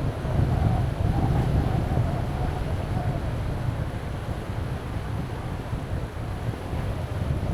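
Strong wind buffeting the microphone in a deep, gusty rumble over the wash of surf on the beach, louder in the first few seconds and easing after. A faint wavering tone sounds during the first three seconds.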